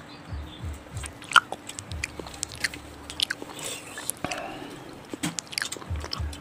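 Close-up mouth sounds of people eating soft ripe fruit such as papaya: chewing with wet smacks and many sharp clicks, and one louder click about a second and a half in.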